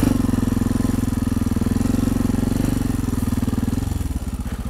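Honda XR650 single-cylinder dual-sport motorcycle engine running steadily at low revs with an even pulsing beat, easing off slightly near the end.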